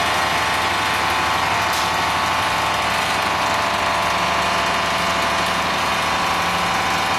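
Straight-seam welding machine for solar water heater tanks running at work: a loud, steady, dense mechanical buzz with a constant pitch.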